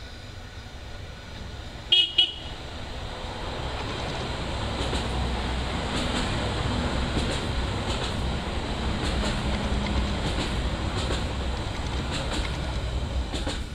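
A train sounds two short horn toots about two seconds in, then passes close by. Its running noise builds to a steady rumble with repeated clicks from the wheels on the rails.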